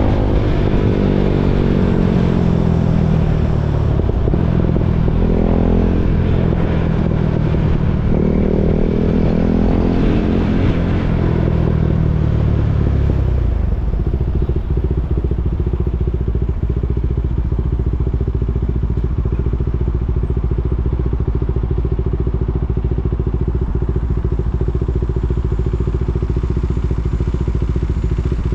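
KTM 390 Duke's single-cylinder engine, its revs dropping and picking up twice, then settling into a steady idle about halfway through.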